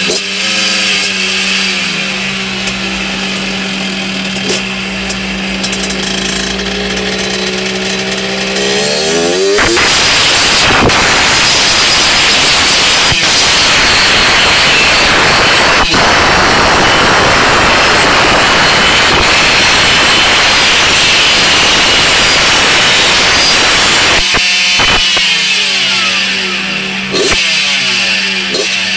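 Honda MT8 moped's two-stroke engine, bored to 113cc with a Malossi kit, run on a roller dyno up through the gears. The revs climb for the first several seconds, then it runs flat out at full throttle for about fifteen seconds, and it winds down as it rolls out near the end.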